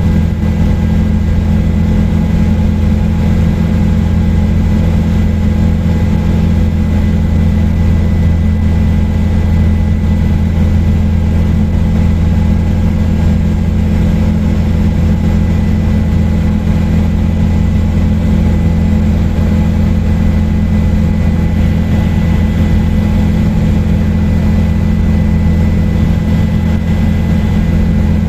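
Helicopter in steady cruise flight: a loud, even drone of engine and rotor with a few steady whining tones over it, unchanging throughout.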